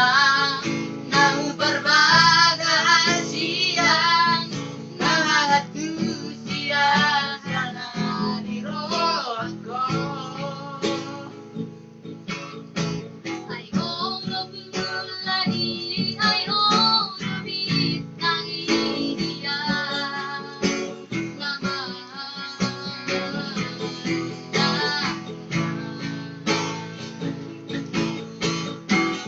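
Singing in a high voice with wide vibrato, accompanied by a strummed acoustic guitar.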